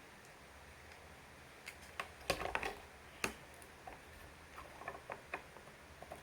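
Small plastic parts of a toy airplane kit clicking and knocking as they are handled and pressed together: a quick cluster of clicks about two seconds in, one sharp click a second later, then scattered lighter clicks.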